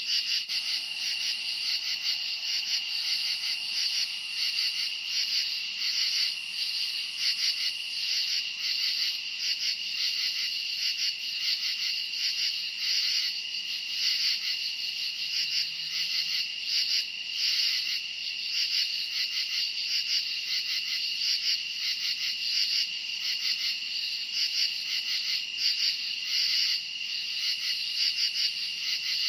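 A dense chorus of crickets chirping steadily, many insects pulsing together at once.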